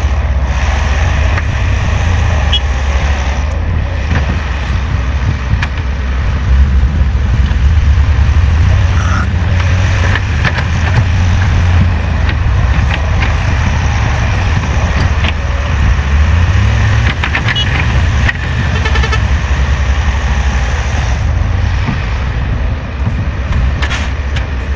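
Heavy machinery engine running steadily with a deep, continuous rumble, with a few scattered knocks.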